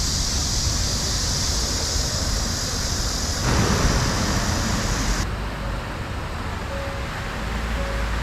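Steady city outdoor noise of traffic, with a high hiss that cuts off suddenly about five seconds in and a brief louder swell just before it.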